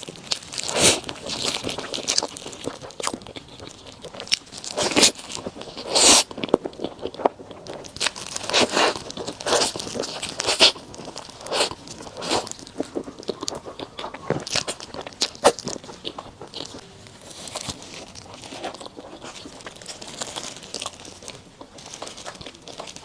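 Close-miked eating: someone biting and chewing food, with many short, sharp crunches at irregular intervals.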